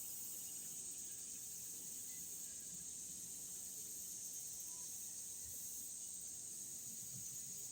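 Faint, steady, high-pitched buzz of insects, cicadas calling in chorus.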